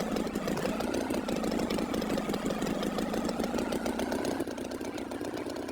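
Tractor engine idling with a fast, steady chugging.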